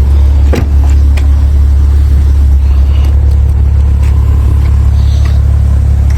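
Steady low rumble of a 2022 Maserati Levante Modena running, with a few light clicks about half a second and a second in.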